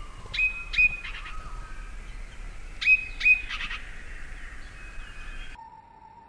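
Bird calls over a steady outdoor background: two quick clusters of short, sharp chirps, one about half a second in and one about three seconds in, with fainter calls between. Near the end the background cuts off abruptly and a faint steady tone takes over.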